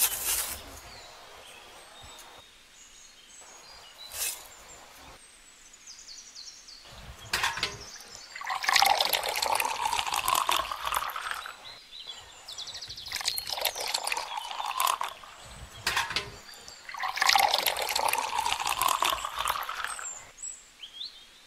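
Water poured from a small metal cup into the drum of a toy concrete mixer holding sand and cement, in three pours of a few seconds each. A couple of sharp taps come before the pouring.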